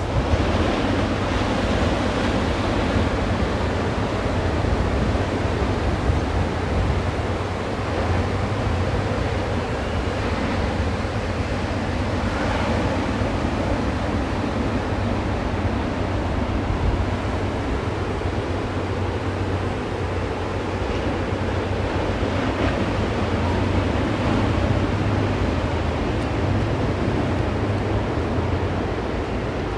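Ocean surf washing onto the beach in a steady roar, with wind rumbling on the microphone.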